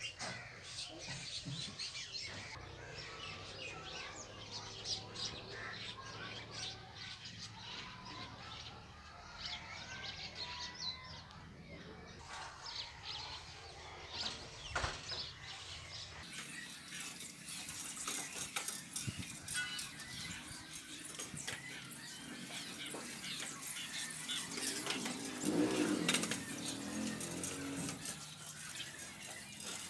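Outdoor ambience with small birds chirping throughout, and a briefly louder sound near the end.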